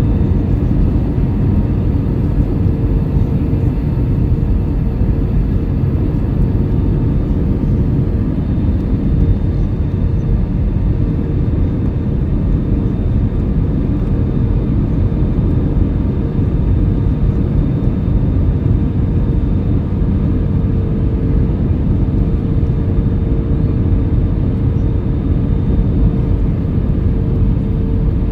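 Cabin noise of an Airbus A319 airliner: an even rumble of engines and airflow with a constant hum just under 500 Hz.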